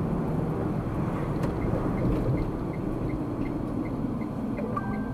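Steady road and engine rumble inside a moving car's cabin, with a soft, regular ticking of the turn-signal indicator, about three ticks a second, starting about a second and a half in.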